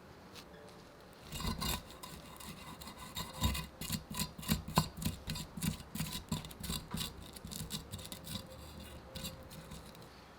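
Hand tool scraping or rasping against metal in quick, irregular strokes, about three a second, starting about a second in and stopping near the end.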